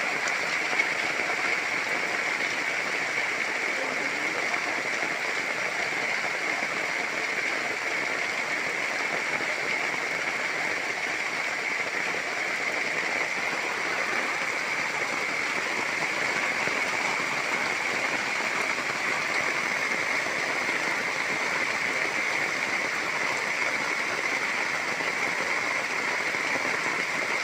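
Heavy rain falling as a steady, even hiss with no let-up.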